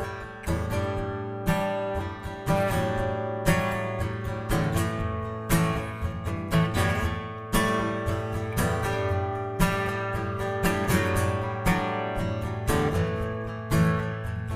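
Acoustic guitar playing an instrumental song intro, chords plucked and strummed in a steady rhythm with a strong accent about every two seconds.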